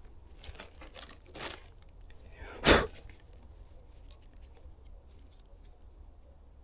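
A knife cutting and trimming small orange-cap bolete mushrooms to check them for worms: a few short scraping cuts, the loudest nearly three seconds in, then faint small clicks of handling.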